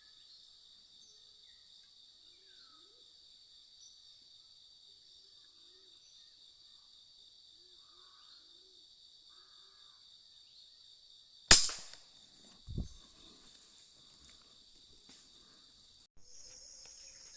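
A Sharp Innova pump air rifle fires once, a sharp crack about two-thirds of the way in, followed about a second later by a dull thud. Insects drone steadily in the background, with faint calls under them.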